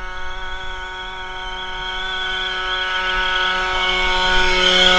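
Small gas engine of a 1/5-scale radio-control truck running at a steady, held pitch while it drags a weighted pulling sled, growing gradually louder toward the end.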